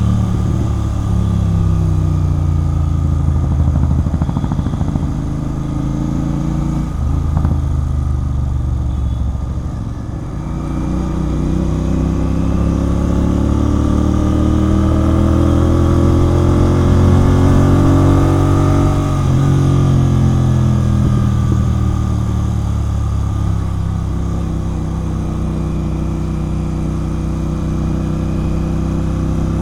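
Royal Enfield Continental GT 650 parallel-twin running through a Red Rooster aftermarket exhaust while riding. The engine note eases off about ten seconds in, climbs steadily as the revs build, then drops sharply a little past halfway and settles into steadier cruising.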